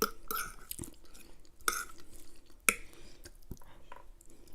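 Close-up eating sounds: a few sharp clinks of cutlery against a plate, with softer wet chewing sounds between them.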